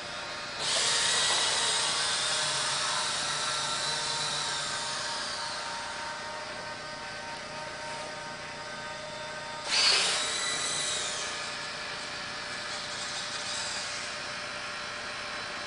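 Servo motors of an InMoov 3D-printed humanoid robot whining as the robot raises its arms on the command "arms up". The whine starts about half a second in and fades over several seconds, and a second, shorter burst of servo whine comes near ten seconds in.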